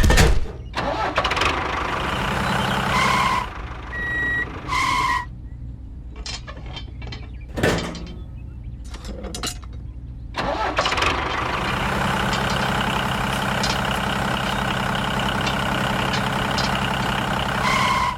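A small motor of a miniature model tractor running with a steady hum, stopping for several seconds in the middle with a few clicks, then running again. Short beeps sound a few times over the motor.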